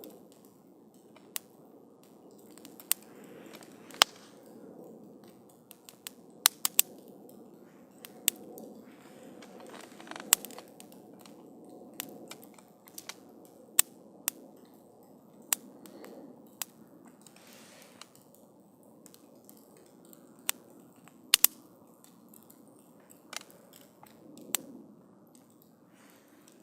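Wood campfire burning, crackling with irregular sharp pops and snaps over a soft steady rush of the flames.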